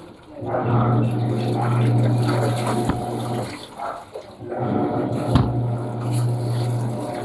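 Panasonic washing machine in its wash cycle: a motor hum with water sloshing in the tub runs for about three seconds, stops briefly, then starts again.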